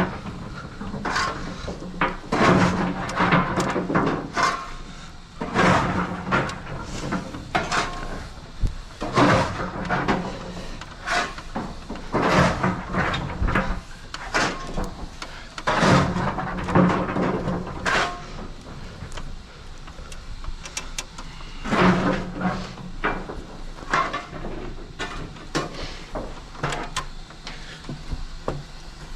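Repeated knocks, clanks and scrapes, coming in uneven groups every second or two, some with a short low hum underneath.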